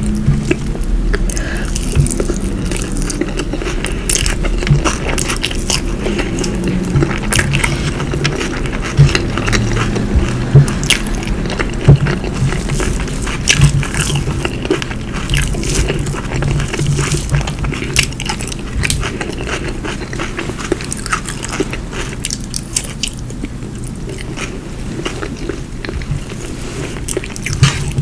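Close-miked eating sounds: steady chewing with many short, sharp wet mouth clicks and small crunches of food.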